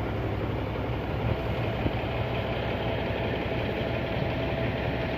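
Heavy diesel engine running steadily at low speed, an even low rumble with no change in pace.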